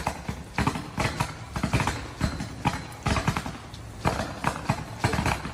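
Ice-loaded power line arcing: an irregular, continuous run of sharp electrical crackles and pops over a low hum, the line burning through at the pole.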